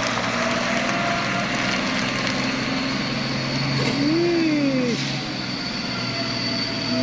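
Heavy diesel truck engines running steadily under load, with a short rising-then-falling tone about four seconds in.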